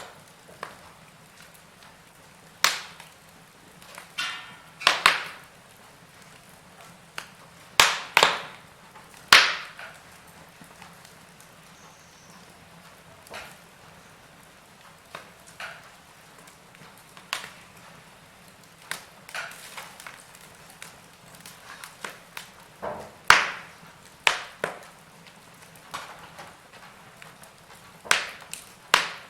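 Wood fire burning in a fireplace, crackling with irregular sharp pops and snaps over a soft steady hiss; the loudest snaps come around eight to ten seconds in and again about two-thirds of the way through.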